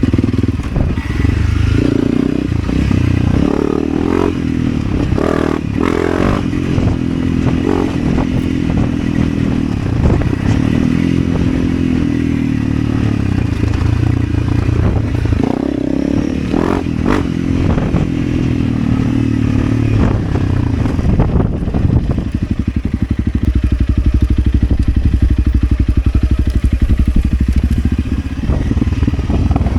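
Motorcycle engine running, its pitch rising and falling with the throttle, with a few knocks and clatters. From about twenty seconds in it settles into a steadier, even drone.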